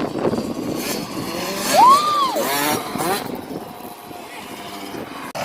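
Dirt bike engine revving up and dropping back once, loudest about two seconds in, with voices around it.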